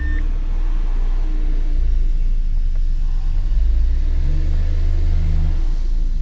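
Renault 1.6 K4M four-cylinder petrol engine running steadily at idle, its note rising a little for a couple of seconds about four seconds in.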